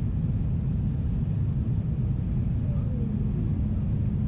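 Steady cabin rumble of a Boeing 777-300ER in flight: its GE90 engines and the airflow over the fuselage, heard from inside the cabin. A steady low hum joins about three seconds in.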